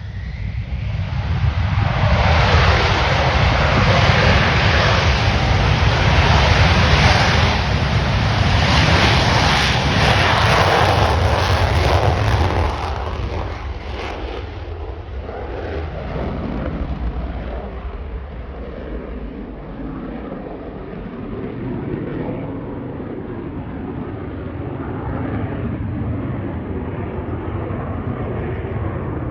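F-35 fighter jet's F135 turbofan engine on a loud takeoff: jet noise builds over the first couple of seconds, stays at its loudest for about twelve seconds, then falls away to a lower, fading rumble as the jet departs.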